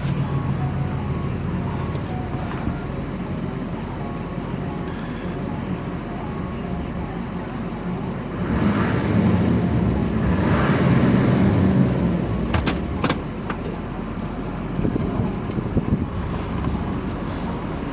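6.6L Duramax turbo diesel running steadily, growing louder for a few seconds about halfway through, with a few sharp clicks just after.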